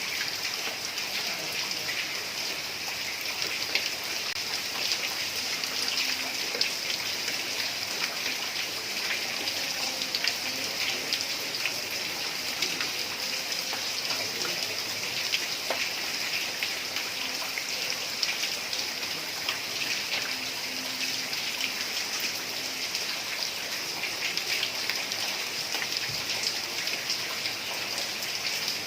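Heavy rain falling steadily on a tiled roof: a dense, even hiss full of small drop taps.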